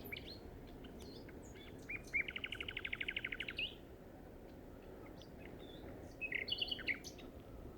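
Common nightingale singing: a fast run of about a dozen repeated notes, roughly ten a second, lasting over a second. After a pause comes a short burst of varied whistles and chirps.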